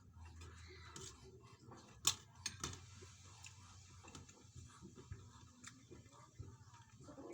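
Quiet eating sounds with a few sharp clicks, the loudest about two seconds in. Near the end an animal's call begins.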